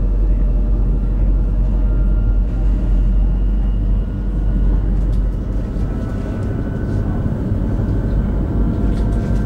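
Interior running noise of an X60B (Alstom Coradia Nordic) electric commuter train at speed: a steady low rumble of the wheels on the rails, with faint steady tones above it.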